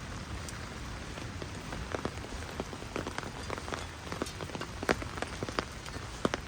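Heavy rain falling in a steady hiss, with loud irregular splats of large drops coming thick and fast from about two seconds in.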